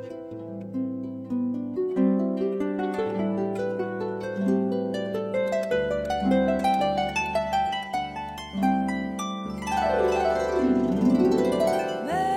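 Solo harp playing a melody of plucked notes over ringing bass notes, with a sweeping glissando down and back up about ten seconds in.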